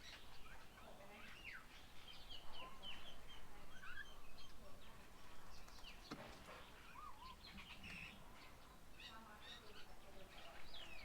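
Faint chorus of birds calling at a garden bird table: many short chirps and quick whistled notes sliding up and down in pitch, overlapping and irregular, with one sharp click about six seconds in.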